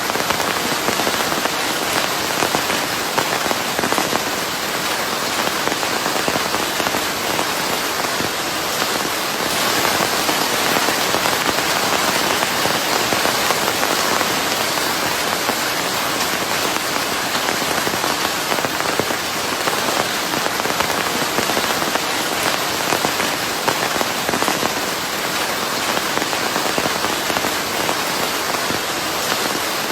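Steady rain, a dense even hiss of drops on a surface with fine crackling patter, mixed with white noise.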